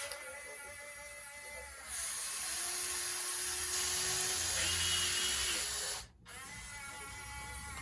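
Electric motors and pumps of radio-controlled model construction machines whining. The whine grows louder about two seconds in, shifts in pitch around the middle, and cuts out briefly just after six seconds before picking up again.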